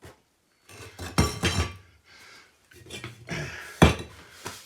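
Hard objects clattering and knocking, tools and fittings being handled. There is a cluster of sharp knocks about a second in and another near the end, with the loudest single knock there.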